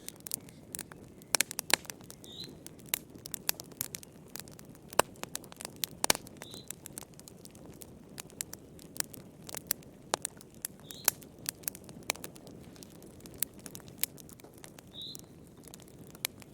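Wood fire in a fireplace crackling, with frequent irregular sharp pops and snaps over a soft, steady low rush of flame. A short high chirp recurs about every four seconds.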